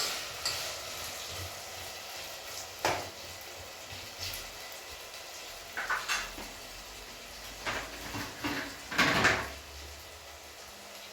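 Kitchenware clattering: a few separate knocks and clinks of pots or dishes being handled, the loudest about nine seconds in, over a faint sizzle of frying that fades away.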